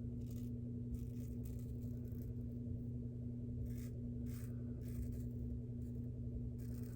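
Steady low hum of a laundry machine running, with a few faint short scrapes of a shavette razor's half DE blade drawn over lathered stubble.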